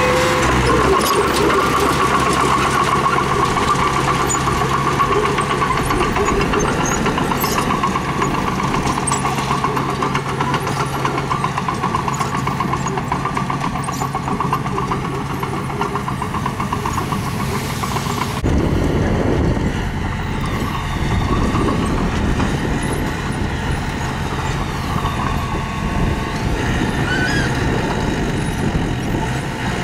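Heavy construction machine engine running steadily. About two-thirds through, the sound changes abruptly to a deeper, rougher engine noise.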